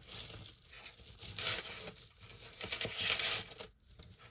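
Costume jewelry handled by hand: light rustling with small metallic clinks, louder about a second and a half in and again around three seconds.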